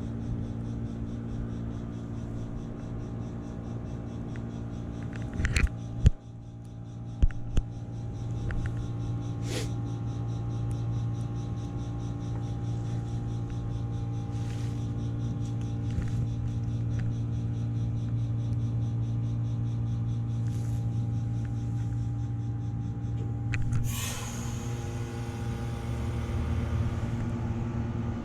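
Vintage 1981 BDP 3-ton heat pump outdoor unit running with a steady low hum from its compressor during a defrost cycle. A few sharp knocks come around six to seven seconds in. About 24 seconds in, a sudden loud hiss starts and keeps going.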